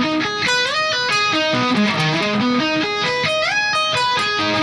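Electric guitar, tuned down to E flat, playing minor arpeggios: single notes running up and down the neck, with quick upward slides about a second in and again near the end.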